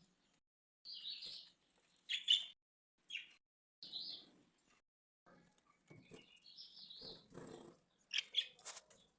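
Budgerigars chirping: a string of short, separate high chirps, with a longer rising, warbling call about six seconds in.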